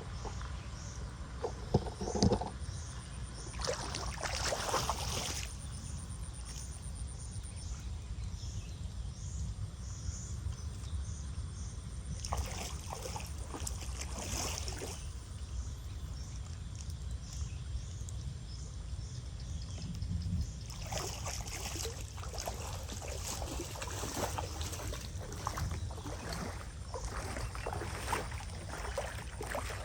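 Water sloshing and splashing in irregular spells over a steady low rumble, typical of debris and mud being worked through standing water in a blocked storm drain.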